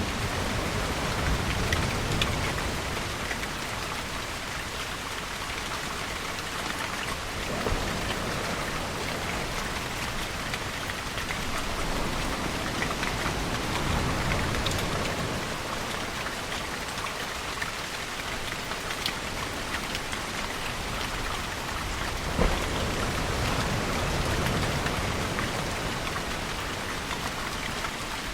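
Steady rainfall, a dense hiss of drops, with a few sharper single drips. Under it, a deeper wash swells and fades every several seconds.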